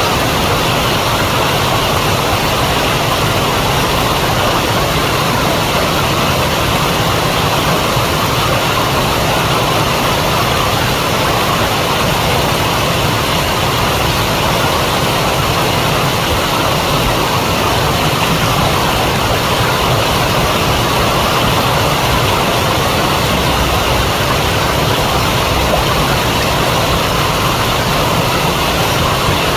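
Steady rushing of a flowing river, an even wash of water noise that does not change.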